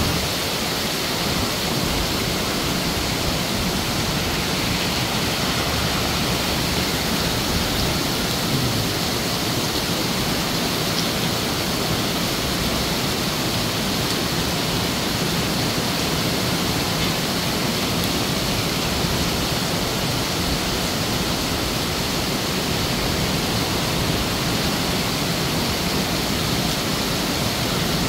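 Heavy downpour pelting a wide paved surface already covered in standing water: a steady, dense hiss of rain that does not let up.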